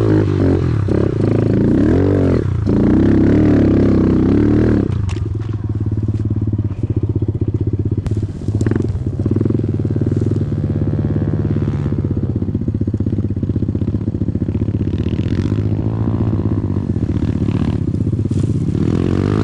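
Small dirt bike engine revving up and down for the first five seconds or so, then running at a steady, lower speed with a fast even firing pulse. There are a couple of brief clicks partway through.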